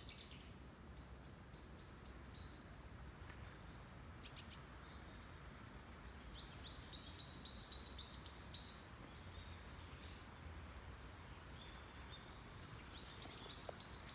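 A small songbird calling in quick runs of short, high, repeated notes, three runs in all, over faint outdoor background noise. A couple of sharp clicks a little after four seconds in.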